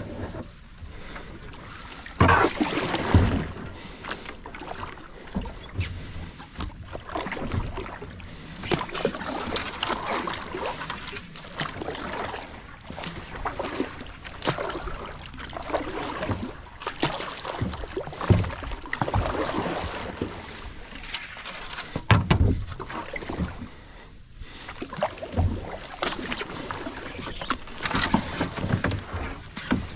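Kayak being paddled: irregular paddle swishes and splashes in the water, broken by a few hard knocks, the loudest about two and three seconds in and again about twenty-two seconds in.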